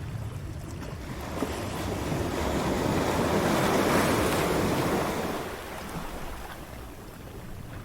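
Ocean waves breaking on a shore: one wave's wash swells to a peak about four seconds in and then fades back to a low rumble of surf.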